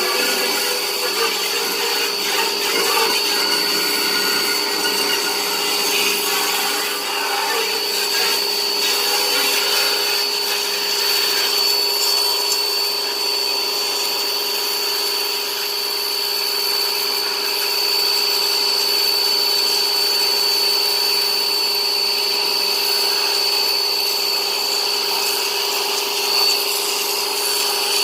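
An electric motor running steadily, with a constant high whine over its rushing noise.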